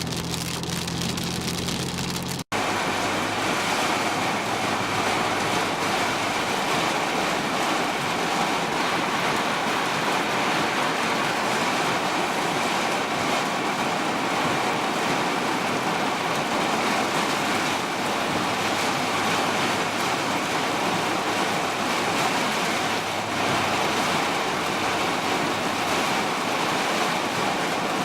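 Heavy rain falling in a steady, even downpour. For the first couple of seconds a low engine hum runs underneath, then it cuts off abruptly at an edit and only the rain noise continues.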